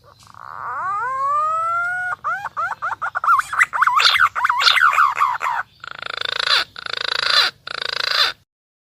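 Green pigeon (punai) call played as a bird lure: a long rising whistle, then a fast run of warbling notes that rise and fall, ending in three harsher, buzzier groups of notes.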